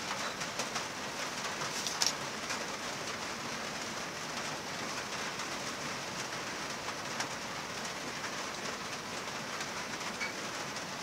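Heavy rain falling, a steady hiss, with a few light taps and clicks in the first couple of seconds, the loudest about two seconds in.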